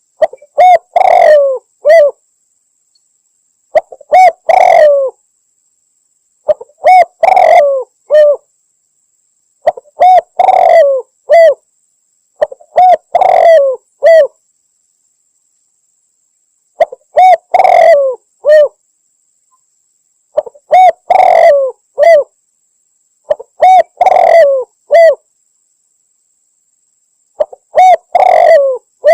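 Spotted dove (tekukur) cooing, played as a hunting lure-call recording: the same phrase of a few short coos and one longer coo repeats about every three seconds, with clean silence between phrases. The uploader presents it as a female calling to a male.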